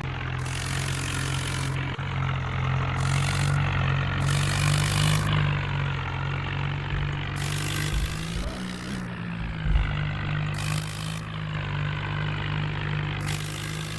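Tractor's diesel engine running at a steady speed, its pitch dipping briefly about two-thirds of the way through, with a hiss that comes and goes several times.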